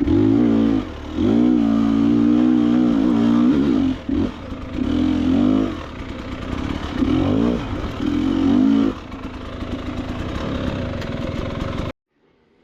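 KTM 300 XC-W two-stroke enduro dirt bike engine revving in short pulls, the pitch climbing and dropping again and again as the throttle is worked on a technical trail. It cuts off abruptly near the end.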